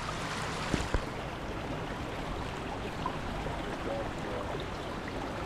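Steady rushing of a winter stream and waterfalls, an even wash of water noise, with a couple of brief knocks about a second in.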